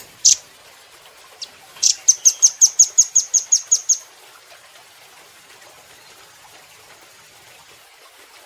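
Velvet-fronted nuthatch calling: two sharp, high notes at the start, then a fast, high trill of about a dozen chips lasting some two seconds.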